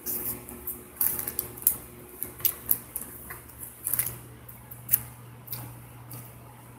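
A person chewing food close to a wired earphone microphone: a string of irregular sharp crunches and mouth clicks, thinning out after about five seconds, over a steady low hum.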